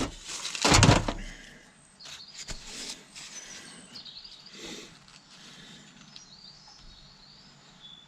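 Two loud clunks of metal parts being handled during pump assembly, then lighter clicks and taps, with faint bird chirps behind.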